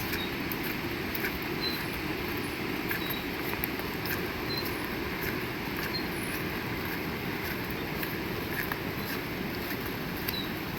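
Steady heavy rain, with scattered sharp taps of drops striking close by. Faint short high chirps sound about once a second.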